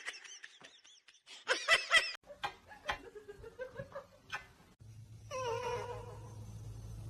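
Domestic cat vocalising: short, arching meows at first, then a long, drawn-out yowl from about five seconds in, over a low steady hum.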